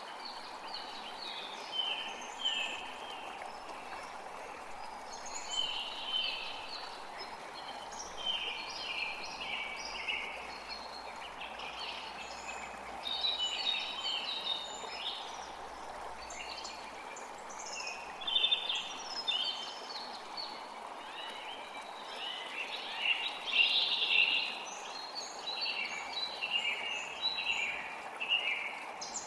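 Forest creek water running steadily, with several songbirds chirping over it: many short chirps that slide downward, coming in quick runs throughout, busiest a little past two-thirds of the way through.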